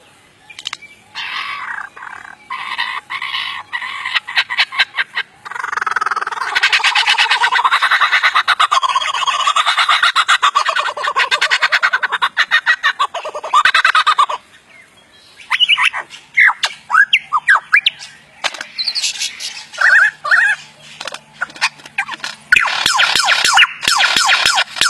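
Bird squawking and calling. A long run of harsh, rapid squawks is followed by short chirping calls, and the harsh squawking starts again near the end.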